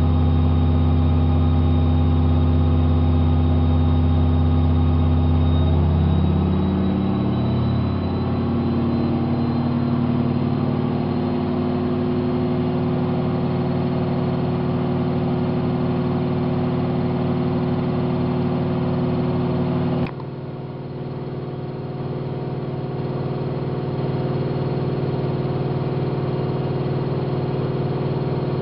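AEG Lavamat 5210 front-loading washing machine spinning with a steady motor hum and whine. About seven seconds in the pitch slides down and settles at a lower steady speed. About twenty seconds in the sound drops suddenly and then builds back up.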